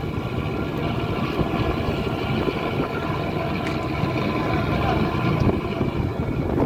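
An engine running steadily at an even pitch, with wind rumbling across the microphone.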